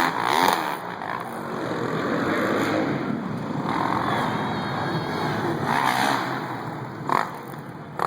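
Dirt bike engines running and revving, with a short loud knock about seven seconds in.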